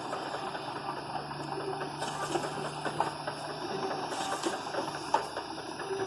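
Automatic labeling machine running: a steady mechanical clatter with occasional sharp clicks, and a low motor hum that stops about halfway through.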